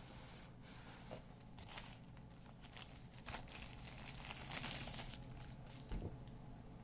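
Packaging being handled: crinkling and rustling of wrapping with scattered small clicks, and a thump about six seconds in.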